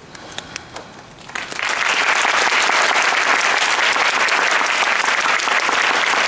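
Audience applause: a few scattered claps, then the crowd breaks into full, steady clapping about a second in.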